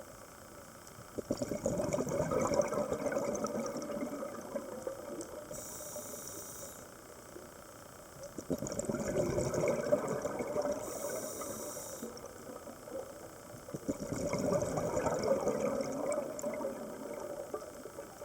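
A scuba diver breathing through a regulator underwater: three long bubbling exhalations about six seconds apart, with a short hiss from the regulator on each inhalation between them.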